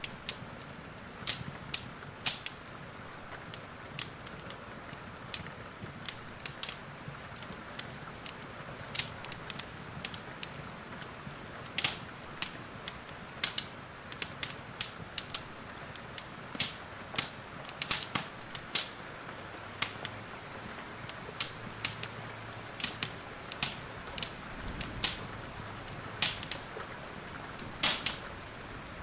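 Wood fire in a fireplace crackling, with irregular sharp pops, over a steady hiss of rain.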